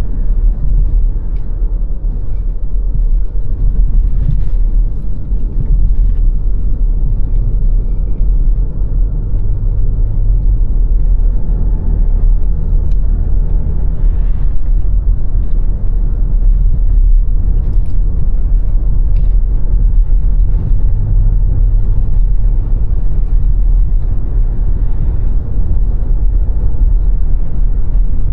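A car driving along steadily, its engine and tyres making a continuous low rumble, with a few faint ticks.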